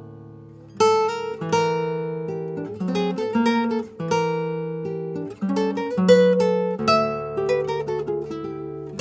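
Acoustic guitar strumming chords, each left to ring out. A fading chord gives way to a new one struck about a second in, and a series of chords follows over a changing bass note.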